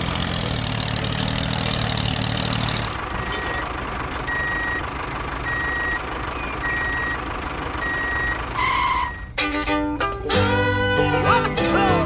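Vehicle reversing alarm beeping at a steady pace, about one beep every 0.8 seconds, over a steady motor hum. Near the end it cuts to upbeat fiddle-and-banjo music.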